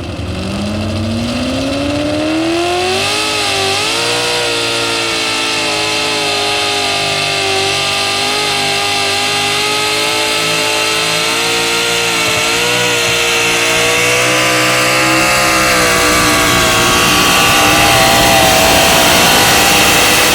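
Street-legal two-wheel-drive pickup truck engine at full throttle under load during a truck pull. The revs climb over the first three seconds, then hold high with small wavers for the rest of the pull.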